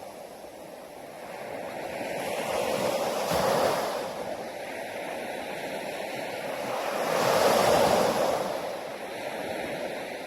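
Sea waves breaking on a beach: the wash of surf swells up and falls back twice, loudest about three and a half and seven and a half seconds in.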